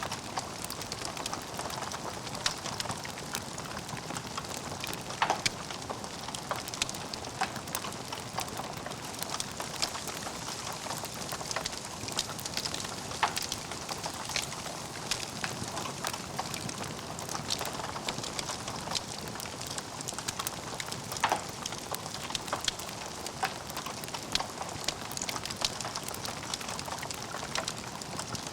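Wood fire burning in a fireplace: a steady soft hiss with frequent irregular crackles and sharper pops, a few of them noticeably louder.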